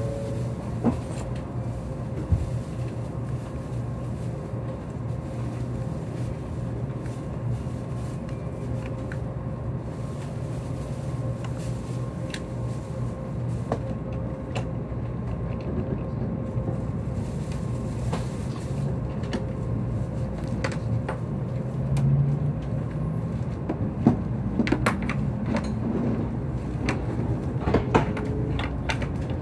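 Tokaido Shinkansen train running, heard inside a passenger car: a steady low hum with faint steady tones above it and scattered short clicks and knocks.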